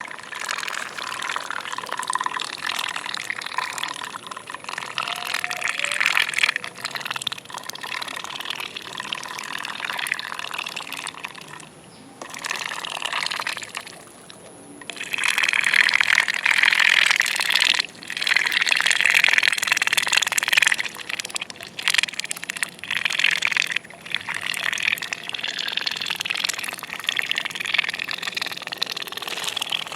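Ducks dabbling and slurping watery feed from a feed bowl: a rapid, wet chatter of bills working through the water. It stops briefly twice near the middle, then comes back louder.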